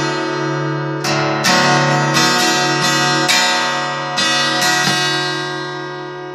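Music: strummed chords on a guitar-like string instrument, each strum struck sharply and left to ring.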